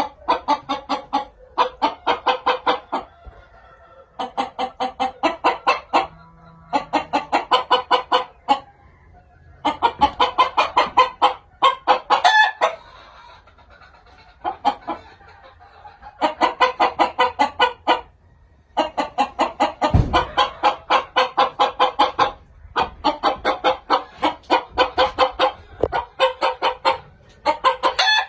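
Chickens clucking in quick runs of rapid, evenly spaced clucks, each run lasting one to two seconds with short pauses between them.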